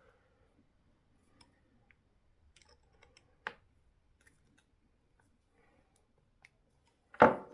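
Faint scattered clicks and ticks of small hand tools and plastic parts being handled while reassembling a 1/8-scale RC car's suspension, with a sharper, louder clack near the end.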